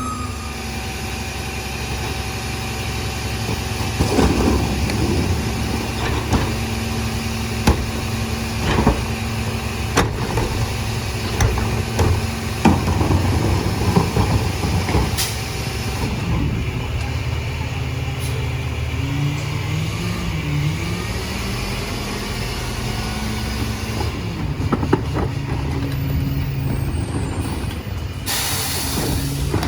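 Peterbilt 348 rear-load garbage truck's diesel engine running steadily, with scattered clanks and knocks and a brief rise in engine pitch about two-thirds through. A loud air brake hiss comes near the end.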